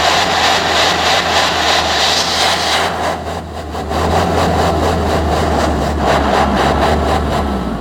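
Vehicle engine running loud through its exhaust, with a harsh broad hiss over a steady low drone that eases briefly about three seconds in and then comes back.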